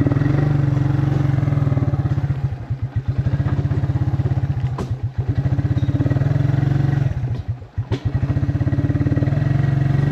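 Small vehicle engine running steadily while towing, its level dipping briefly three times, with two sharp knocks from the rig partway through.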